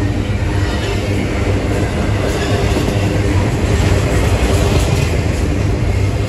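Norfolk Southern double-stack intermodal freight train passing at close range: a loud, steady rumble of its wheels on the rails.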